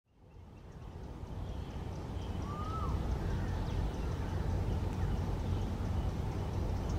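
Outdoor pond-side ambience fading in: a steady low rumble with faint bird calls in the background, and one clear bird call that rises and then drops about two and a half seconds in.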